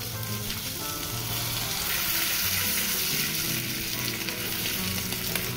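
A filled, sauce-dipped tortilla frying in hot oil in a skillet, with a steady sizzle.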